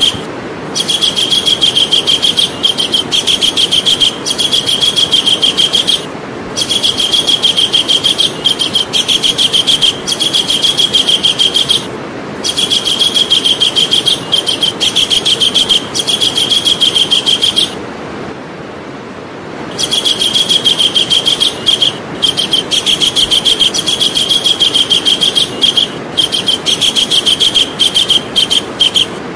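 Javan kingfisher calling: long runs of rapid, evenly repeated high notes, each run several seconds long, with short breaks between runs and one longer pause a little past the middle. A steady background hiss lies underneath.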